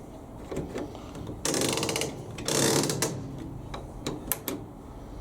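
Hands working with small tools and parts, most likely changing the fuse in the dryer's mains plug: scattered light clicks and two short bursts of rapid ratcheting clicks, about one and a half and two and a half seconds in.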